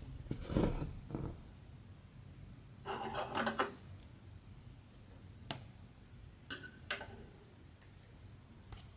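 Hand-stitching sounds: embroidery thread drawn through cross-stitch fabric in two short rasping pulls, about half a second in and around three seconds in, then a few light clicks later on.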